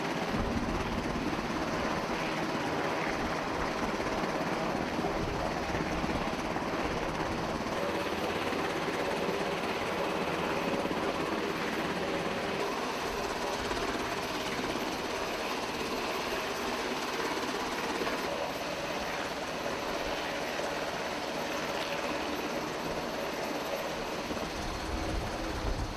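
Loud, steady mechanical noise without pauses, of the kind heard from running machinery or a helicopter.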